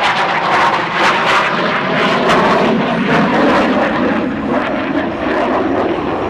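Fixed-wing airplane engine noise as the plane flies past, its pitch sliding down as it goes by.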